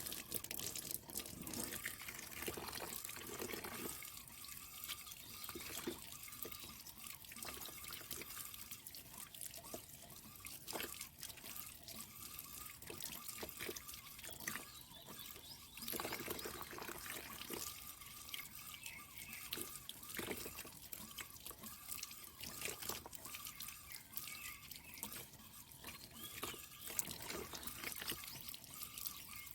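Water dripping and trickling, with many irregular small splashes and clicks, while a stream-fed water tank's filter is being cleaned.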